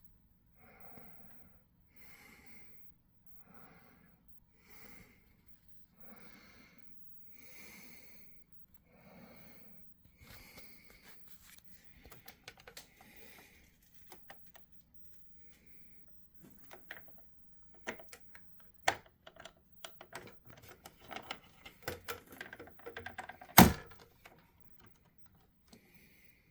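Clicks, taps and knocks from handling a plastic radio-controlled Western Star dump truck model, with one much louder knock a few seconds before the end. For about the first ten seconds there are only soft puffs about every second and a half.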